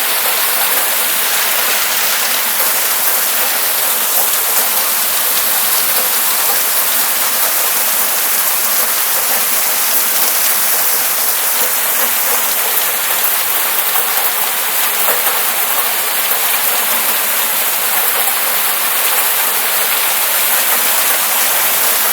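Heavy hail pelting down, a dense, steady hiss made of countless small impacts.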